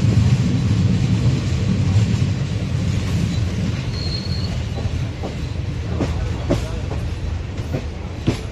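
Express passenger train running at speed, with a steady low rumble. From about halfway through, the wheels click over rail joints half a dozen times, and a brief high squeal sounds around the middle.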